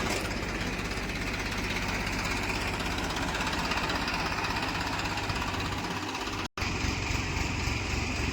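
Heavy diesel engine running steadily. About six and a half seconds in, the sound cuts out for a moment, then an engine comes back with a regular throb.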